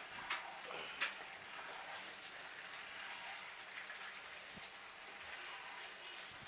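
Cubed potatoes and capsicum sizzling as they fry in a pan, with a spatula knocking and scraping against the pan twice within the first second or so.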